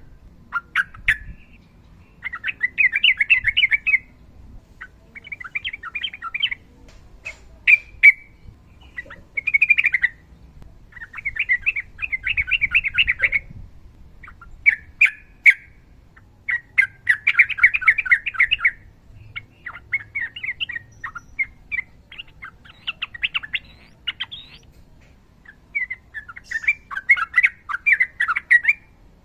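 Yellow-vented bulbul (trucukan) singing long chattering rolls: about a dozen bursts of rapid notes, each one to two seconds long, with short sharp calls between them.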